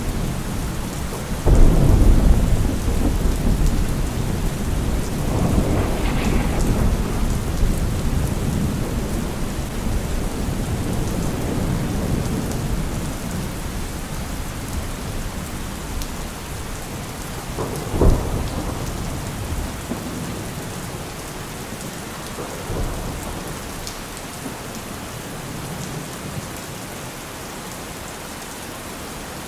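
Heavy rain falling steadily, with thunder: a loud clap about a second and a half in that rumbles on for several seconds, a sharper crack about eighteen seconds in, and a fainter rumble a few seconds after that.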